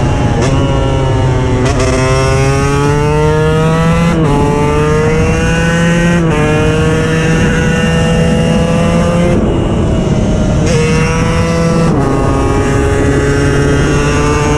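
KTM 125 EXC's single-cylinder two-stroke engine accelerating hard through the gears, its pitch climbing in each gear and dropping at each upshift, four shifts in the first seven seconds. About nine seconds in the throttle eases off, then it pulls up through the gears again.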